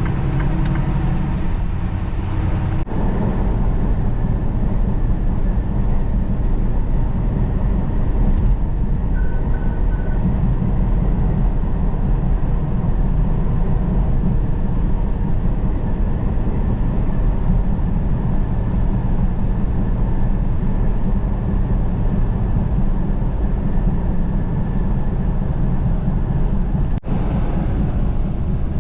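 Semi truck driving at steady speed on the highway: a continuous low rumble of diesel engine and road noise.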